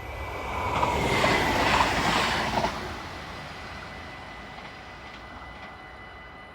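A train passing over a level crossing: its rushing noise swells for about a second, stays loud for under two seconds, then dies away. A steady high tone sounds throughout.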